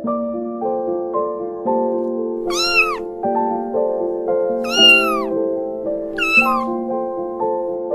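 A kitten meowing three times, each meow rising then falling in pitch, the middle one longest and loudest, over soft piano music.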